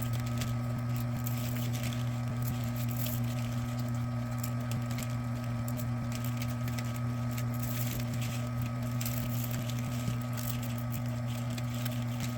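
Vevor electric wire stripping machine's motor running with a steady hum, with light irregular crackling as insulated copper wire is fed through its blades.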